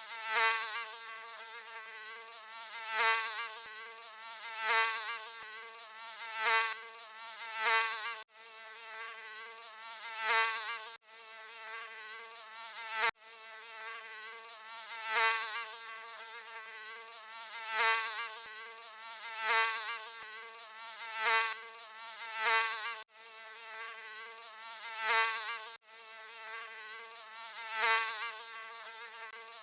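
Mosquito buzzing: a thin high whine with a steady pitch that swells louder every couple of seconds, as if the insect were passing close by. A few times it cuts out suddenly for an instant.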